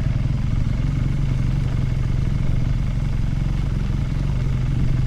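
Motorcycle engine running steadily at low revs, its note holding level without revving up or down.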